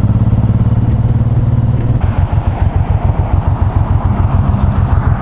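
Honda VTX1800C's big V-twin engine running. About two seconds in its steady note drops to a slower beat of separate pulses as the bike eases off, as at idle while pulling in to park.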